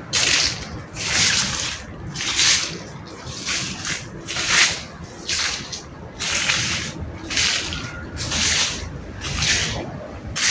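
Water lapping in repeated swishing surges, about one a second.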